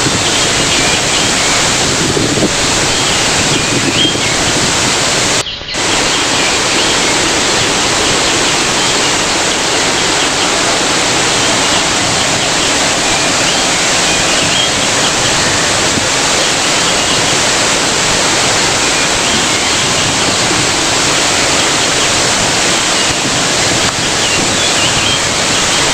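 Waterfall rushing in a steady loud roar of falling water, broken by a brief dropout about five and a half seconds in.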